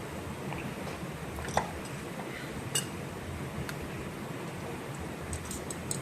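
A few sharp, small metallic clicks and clinks from tools and parts being handled while the gear unit of a Honeywell MT4000 servomotor is opened, the loudest about a second and a half in, over a steady faint background hiss.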